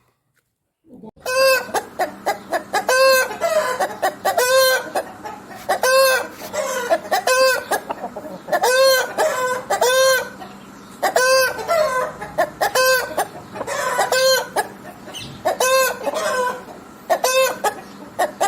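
Chickens clucking: short arching calls repeated every half-second or so in clusters, starting after about a second of silence.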